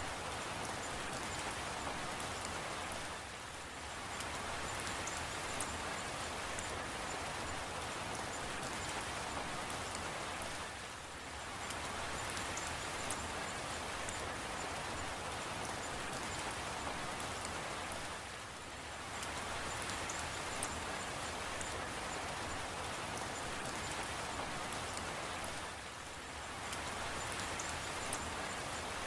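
Steady rain falling, an even hiss of drops that dips briefly in level about every seven and a half seconds.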